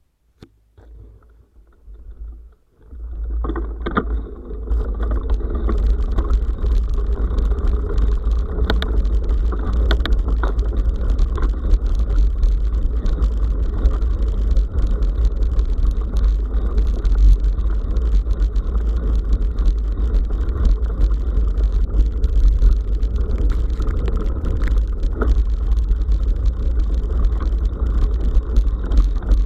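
Wind buffeting an action camera's microphone as a bicycle rides along a forest dirt road, a heavy, steady rumble with tyre and gravel noise and scattered rattling clicks. It starts up about three seconds in as the bike gets moving.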